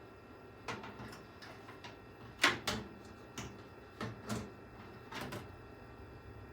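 Irregular clicks and light knocks of parts being handled and fitted on a PC case, about nine in all, the loudest a sharp knock about two and a half seconds in.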